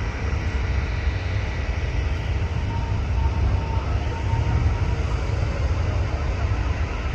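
Jet airliner's engines running: a steady, heavy rumble with a faint, thin, high whine over it.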